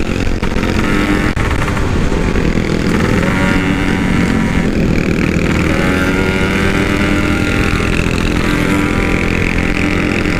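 Yamaha RX-King two-stroke single-cylinder motorcycle engine running under way through a loud aftermarket exhaust, its pitch rising and falling with the throttle.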